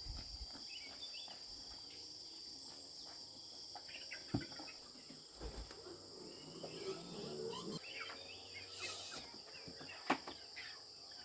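Steady chorus of insects, several high tones held throughout, with two sharp knocks (about four seconds in and near the end) and a few scattered short chirps or animal calls in the middle.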